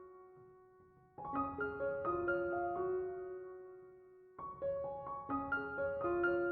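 Soft solo piano background music: gentle phrases of single notes that ring and fade, with a near pause about a second in before the next phrase begins.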